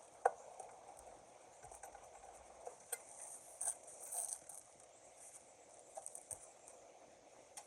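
Faint, scattered metallic clicks and taps, the sharpest about a quarter second in, from prying at a sterndrive outdrive that is stuck in its bushings.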